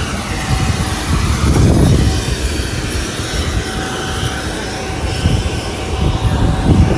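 Private jet aircraft noise: a loud, steady rush of engine and air noise with a faint high whine and an uneven low rumble.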